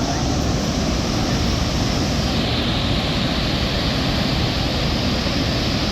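Steady roar of the water pouring over Niagara Falls, an even rushing noise, a little duller from about two seconds in.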